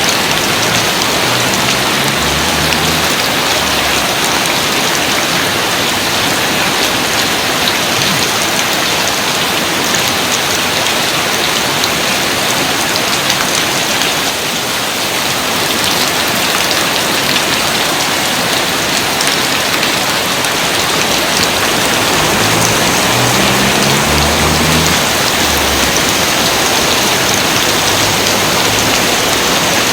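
Steady, dense rainfall: an even hiss of rain, with brief low rumbles twice.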